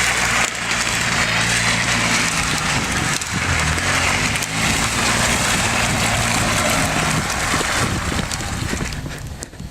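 Ford Focus ST's engine running at a steady low speed while the car slides on plastic McDonald's trays under its wheels, the trays scraping loudly over the rough pavement. The noise drops off near the end.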